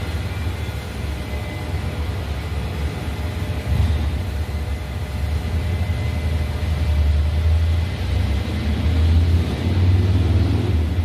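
Light rail train running on the track with a steady low rumble that grows louder twice, about four seconds in and again near the end.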